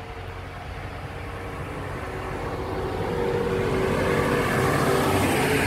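A train approaching and passing close by, its sound growing steadily louder for about four seconds and peaking near the end, with a steady low hum and a few held tones under the rushing noise.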